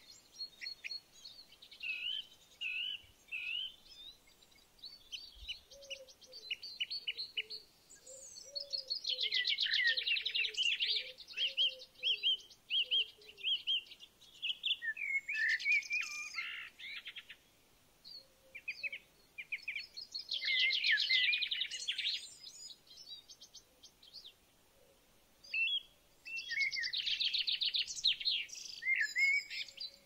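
Songbirds singing: bursts of rapid, high trilling phrases every few seconds, with scattered chirps in between.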